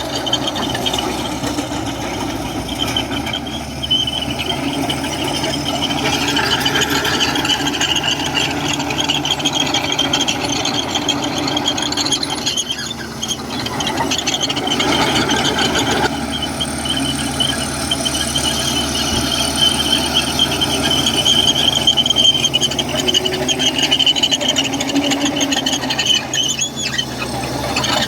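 Komatsu crawler bulldozer on the move, its steel tracks squealing and clanking. The high squeal holds steady and eases off briefly twice.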